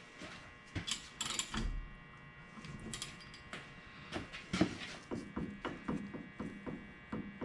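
Metal clicks and clunks from a Mopar 8.25 rear differential being worked by hand during backlash setup, with a run of evenly spaced clicks, about three a second, in the second half.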